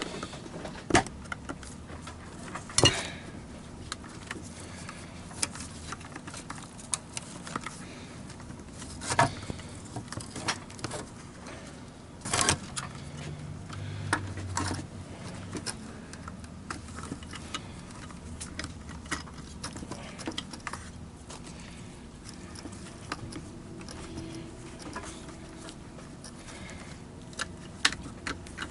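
Hands working on a Wessel-Werk EBK 340 vacuum power head, putting displaced wires back in place and fitting the plastic housing: scattered small clicks, taps and light rattles, with a few sharper knocks.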